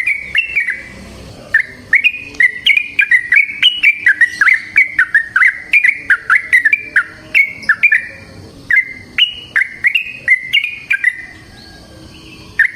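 Yellow-vented bulbul (trucukan) singing long runs of quick, bubbling whistled notes, pausing briefly about a second in and again after about eleven seconds.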